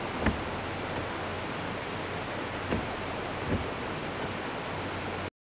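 Idling car engine: a steady low hum under a steady noisy rush, with a few faint knocks. The sound cuts off suddenly near the end.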